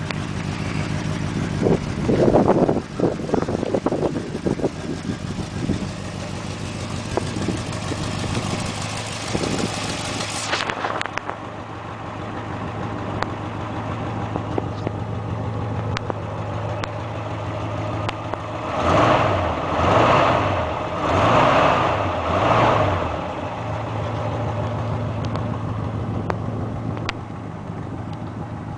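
1967 Ford F100's 352 V8 engine idling steadily, revved four times in quick succession about two-thirds of the way through and then settling back to idle.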